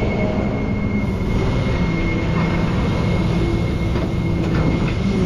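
A rollback tow truck's engine and hydraulic system running steadily, a low drone with a thin high whine over it. The pitch of the drone shifts down slightly about two seconds in and changes again near the end.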